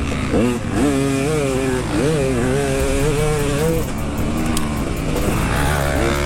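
Dirt bike engine being ridden hard, revs repeatedly climbing and dropping, held steadier for a stretch in the middle, over a continuous rushing noise.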